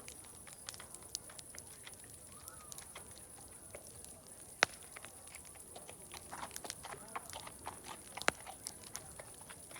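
Wood fire crackling, with many small snaps and two sharp, loud pops, one about halfway through and one near the end, over a steady high-pitched hiss. Faint animal sounds come and go in the background, busiest in the second half.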